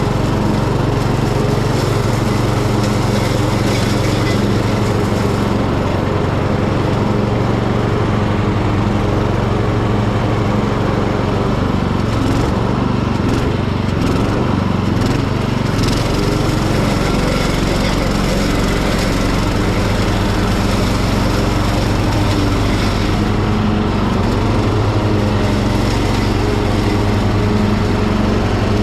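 Ride-on Hecht garden tractor running steadily at working speed, its mower blades spinning as it cuts overgrown grass; the engine note holds constant throughout.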